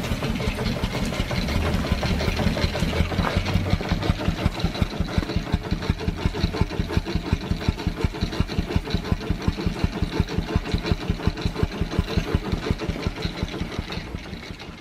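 Morris steam engine running at a steady speed, with an even beat of about six strokes a second and a light knock from its bottom end, which the owner puts down to a crosshead that rocks on its one-sided slide and connecting-rod brasses left a little loose. The sound fades out near the end.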